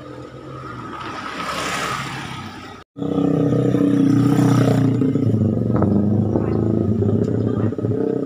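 A rising rush of a vehicle passing. Then, after a sudden cut about three seconds in, a Suzuki Katana (Jimny) off-road jeep's engine runs loudly and steadily.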